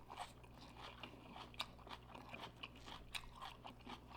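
A person chewing food close to the microphone: faint, irregular crunches and wet mouth clicks during a mukbang meal of KFC fried chicken and sides.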